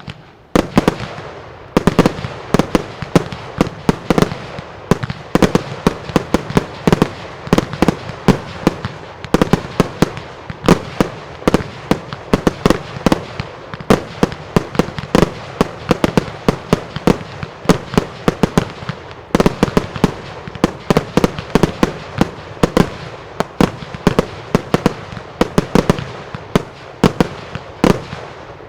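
Mascletà fireworks: a rapid, rhythmic string of loud salutes, reports and truenos going off several a second without a break, each bang sharp with an echoing tail.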